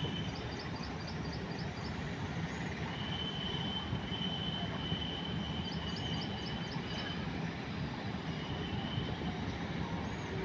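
Steady distant rumble of an electric locomotive approaching along the line. Over it a thin high tone comes and goes, and twice there is a quick run of about six high chirps.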